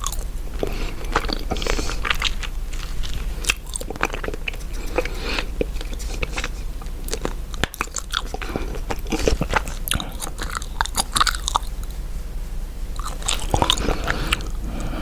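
Chewing gum close to the microphone: continuous chewing with many short clicks and crackles.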